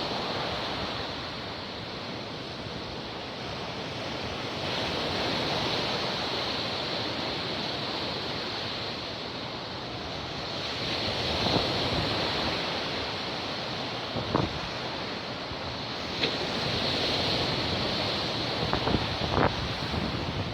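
Storm surf on the Black Sea breaking and washing up the shore, the rush swelling with each wave about every six seconds, with wind buffeting the microphone. A few brief knocks in the second half.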